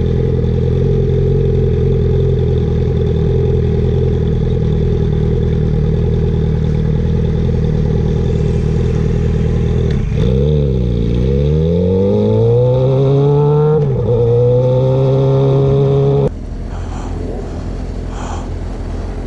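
Suzuki GSX-R 750 inline-four sport bike with an Akrapovic slip-on exhaust, ridden at a steady engine speed. About ten seconds in, the engine note dips, then climbs through the gears with shifts. About sixteen seconds in, it drops away suddenly, leaving quieter road and wind noise.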